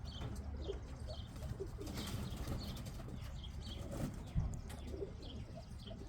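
Domestic flying pigeons cooing, with short high chirps scattered through, over a low steady rumble.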